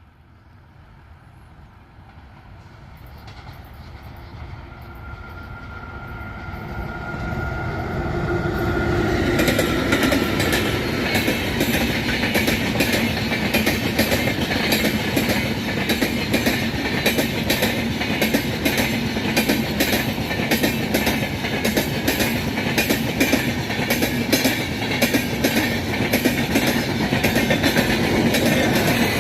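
Humsafar Express passenger train hauled by a WAP-4 electric locomotive, approaching and passing close by. It grows louder over the first eight or nine seconds, then the coaches clatter past with a rapid, regular clickety-clack of wheels over the rail joints.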